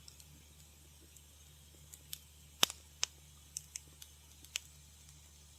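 Wood fire crackling in a fireplace: scattered sharp pops and snaps over a faint steady hiss, most of them in the second half.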